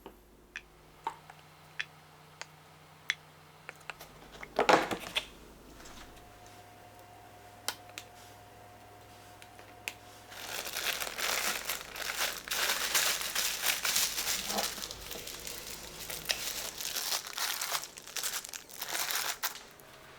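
Plastic packaging being crinkled and handled in irregular bursts for most of the second half, after a few light clicks and one louder knock in the first few seconds.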